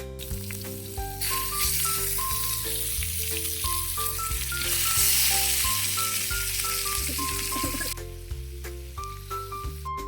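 Chicken pieces in chili paste sizzling on an oiled Teflon grill pan. The hiss starts about a second in and drops away near the end, under background music with a plucked melody and bass line.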